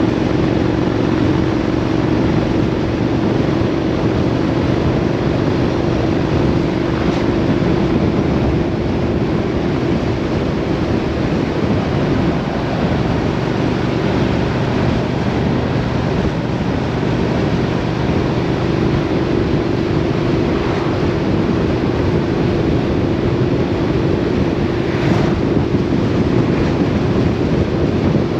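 A vehicle engine running steadily at cruising speed under heavy wind noise on the microphone, with a constant low hum and no change in pace.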